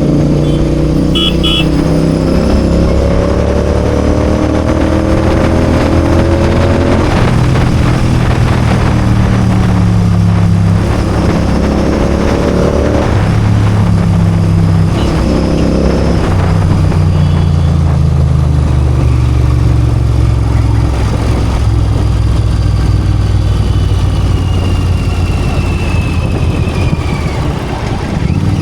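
Royal Enfield Continental GT 650's parallel-twin engine and exhaust while riding in traffic. The engine note climbs in pitch and drops back several times as the throttle opens and closes.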